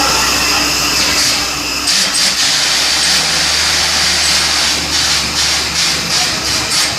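Borewell drilling rig running: a steady engine drone under a loud hiss, which changes about two seconds in.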